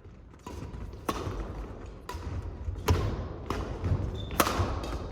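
Badminton rally: five sharp racket strikes on the shuttlecock, roughly one a second, with footfalls thudding and shoes squeaking on the court floor.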